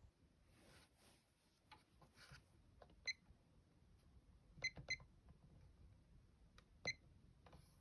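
Four short, faint clinks with a brief ringing tone, as of small hard parts knocking together: one about three seconds in, a quick pair just before five seconds and one near seven seconds, otherwise near silence.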